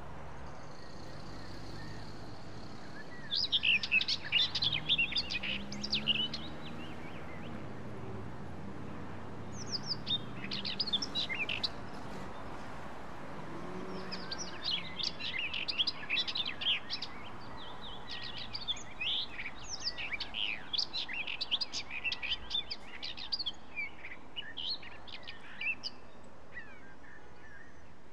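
Small birds chirping in several bursts of rapid high chirps, the longest run in the second half, over a steady background hiss.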